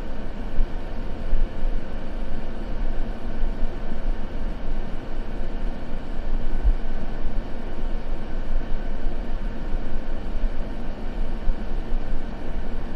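Continuous white-noise sleep track, a steady hiss weighted toward the low end so it sounds like an even rumble, with no changes.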